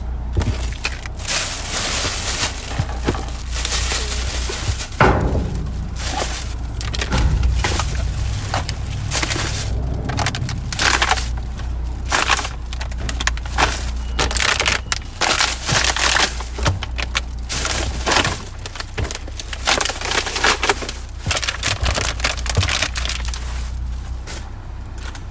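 Plastic trash bag crackling and crunching as it is handled and dumped, in irregular bursts over a steady low rumble.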